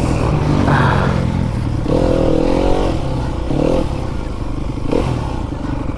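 Fantic enduro dirt bike's engine running under the rider, revving up and dropping back in short bursts about three times as it is ridden over the track.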